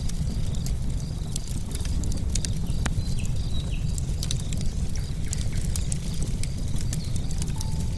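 Wood fire crackling: burning logs give irregular sharp pops and snaps over a steady low rumble of the flames.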